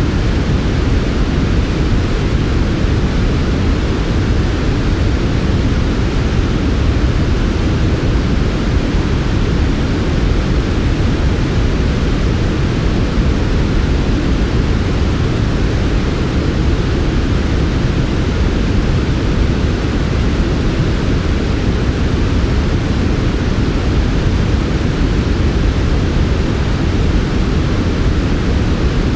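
Steady, unchanging synthetic noise played as a sleep sound, a soft and smooth hiss weighted toward the low end with no events in it.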